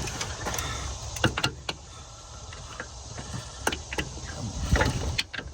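Hand tools working on the brake booster's mounting nuts under a car's dashboard: scattered sharp metallic clicks and clinks, a few close together about a second in and single ones later, over a low rumble.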